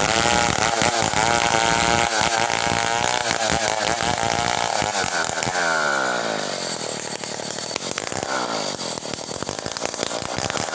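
Stihl 070 two-stroke chainsaw running at high revs with its pitch wavering, then winding down toward idle about five seconds in, and revving back up near the end.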